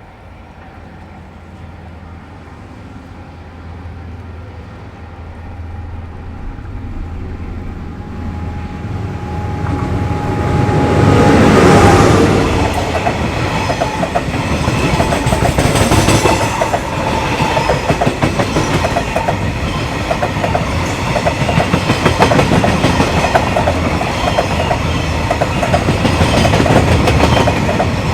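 Freight train approaching and passing: the locomotive grows steadily louder for about ten seconds and is loudest about twelve seconds in, then the wagons roll by with a continuous rhythmic clickety-clack of wheels over the rail joints.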